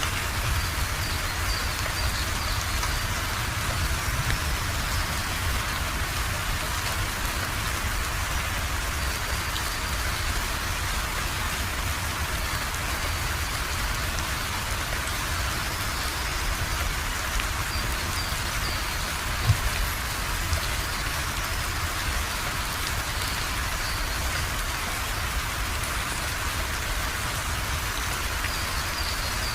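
Steady rain falling, an even patter that does not let up, with one sharper tap about two-thirds of the way through.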